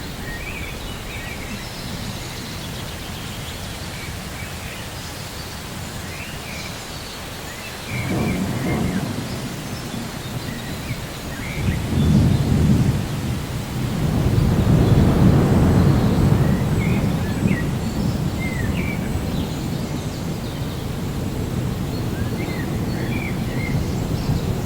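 Rolling thunder rumbling over a steady hiss of rain, swelling about eight seconds in and again, louder, from about twelve seconds. Short bird calls chirp on and off throughout.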